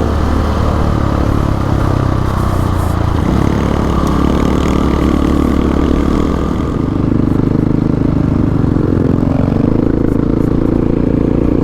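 Single-cylinder dual-sport motorcycle engine running while riding, its pitch shifting about three seconds in and again near seven seconds, where it gets a little louder.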